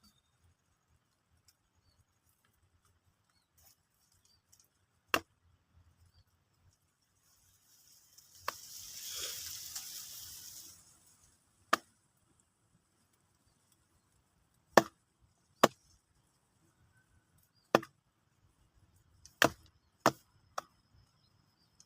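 Blade chopping down onto wood: about nine sharp single strokes at uneven intervals, most of them in the second half. A few seconds of hissing scrape come before the middle.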